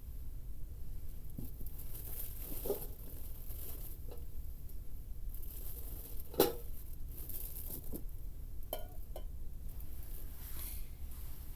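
Scattered small handling noises, rustles and light clicks, with one sharp click about six seconds in and two short clinks a little later, over a steady low rumble.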